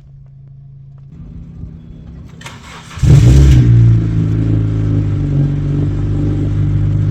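A muffler-deleted, straight-piped Honda Civic engine starting warm: a brief crank about two and a half seconds in, the engine catching with a loud flare of revs about three seconds in, then settling into a steady idle.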